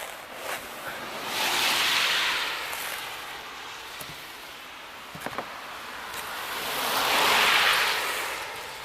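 Two vehicles passing one after the other, each a swell of tyre hiss that rises and fades over about two seconds, with a few faint small knocks in between.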